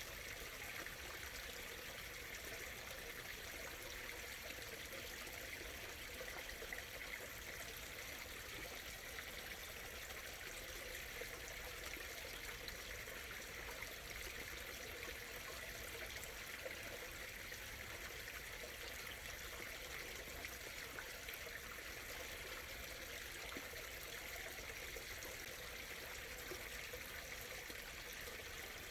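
A small stream running and trickling steadily, with little splashes scattered through an even water sound.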